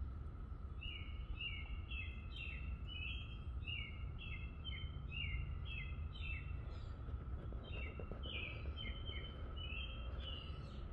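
A songbird singing a fast run of short, downslurred chirps, about three a second, with a brief break about two-thirds through. Under it are a faint steady hum and a low background rumble.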